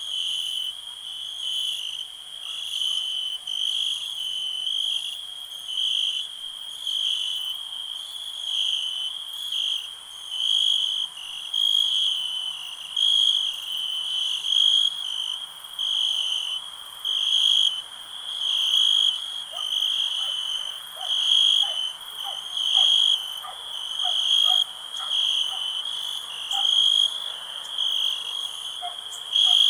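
Crickets chirping in a steady high trill that swells and fades about once a second. From a little past halfway, a second, lower caller joins in with quick short chirps repeated several times a second.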